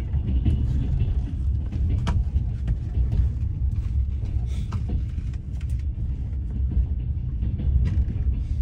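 Passenger train running on the rails: a steady low rumble of wheels and carriage, with scattered sharp clicks and knocks.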